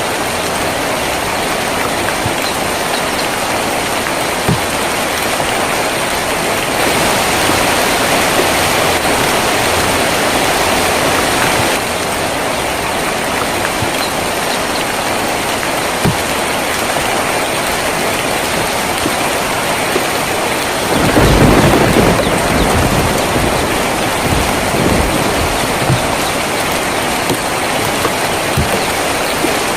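Steady rain falling on a tin roof, a little heavier for a few seconds from about seven seconds in, with a few sharp drip ticks. About two-thirds of the way through, a low rumble of thunder comes in and rolls on for several seconds.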